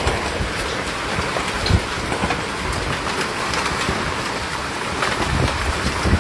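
Heavy hailstorm with rain: a dense, steady hiss of rain peppered with countless sharp hailstone impacts, and a few louder thuds, one about two seconds in and another near the end.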